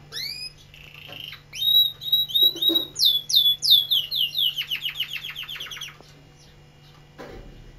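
Domestic canary singing: a string of downward-sliding whistled notes, then a fast trill of repeated notes that breaks off about six seconds in.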